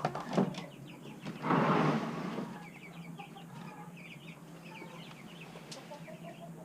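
A brood of chicks peeping, in many short high cheeps throughout. A sharp knock comes about half a second in, and a louder rustling rush of noise follows about a second and a half in, lasting about a second.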